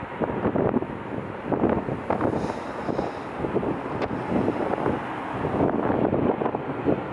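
Strong gusty wind buffeting the microphone, a rough, uneven rumble that rises and falls.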